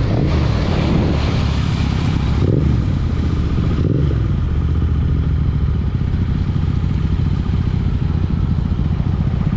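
BMW S1000RR sport bike's inline-four engine running at a steady low-rev note while riding, with wind and road rush that eases about halfway through.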